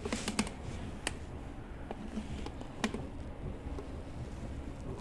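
A few light, sharp clicks and taps over a low steady hum: the removed intake manifold being handled and tipped to drain trapped oil out of it.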